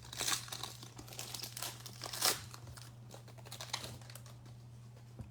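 Foil trading-card pack wrapper crinkling and tearing as it is opened by hand, a run of irregular rustles that thins out after about four seconds.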